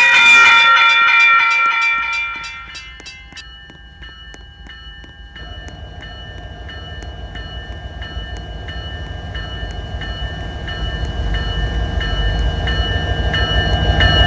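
Train horn sounding a loud chord that cuts off about three seconds in, while a bell keeps ringing in even strokes. The low rumble of an approaching train then builds steadily louder.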